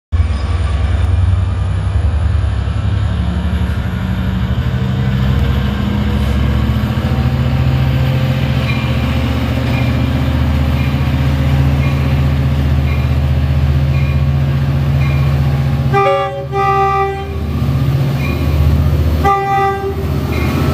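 Long Island Rail Road diesel train running with a loud steady engine drone, then sounding its horn in two blasts near the end, the first about a second and a half long, the second shorter.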